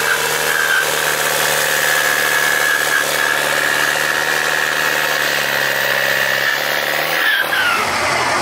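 Tractor engine in a tractor pull, running at a steady high, even pitch, then its note drops away about seven seconds in as the throttle comes off.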